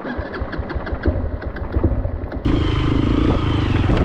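Motorcycle engine running. An abrupt cut about halfway through changes it from a rapid ticking to a louder, steadier engine sound.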